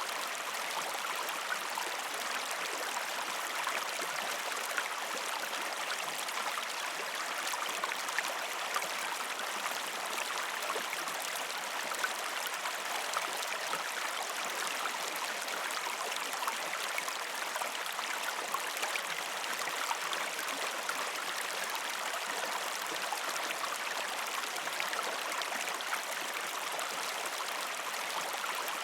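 Gentle river stream flowing over rocks: a steady rush of water with many small splashes and ticks scattered through it.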